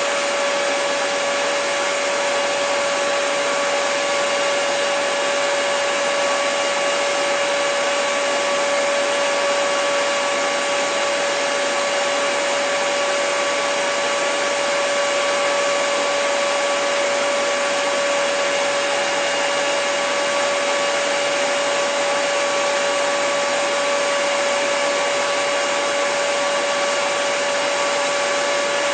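Hair dryer running steadily: an even rush of blowing air with a constant motor whine over it.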